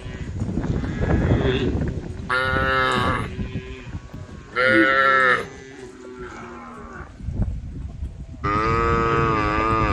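A cow mooing to call the herd: three long moos, about two, five and eight and a half seconds in, the last held to the end. The first two seconds hold a loud rough noise without a pitch.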